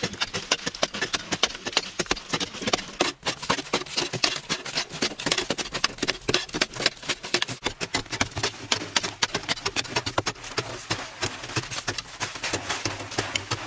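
Rapid, irregular knocking and scraping strokes, several a second, without a break: hand-tool work.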